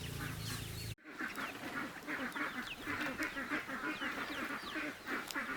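A flock of ducks quacking and chattering, many short calls overlapping without pause, starting after a sudden cut about a second in. Before the cut there is a steady low hum with small birds chirping.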